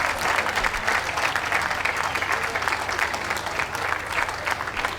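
Audience applauding, many people clapping steadily and easing off a little near the end.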